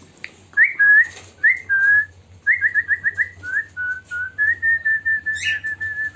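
Clear whistling in a string of single-pitched notes: a few separate notes that flick upward, then a quick run of about five, then a longer chain of short, even notes on nearly the same pitch.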